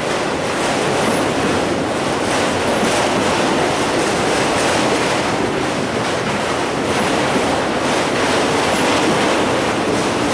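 Freight train of enclosed autorack cars rolling past close by: a steady, loud rumble of wheels and car bodies with repeated clacking of wheels over the rail joints.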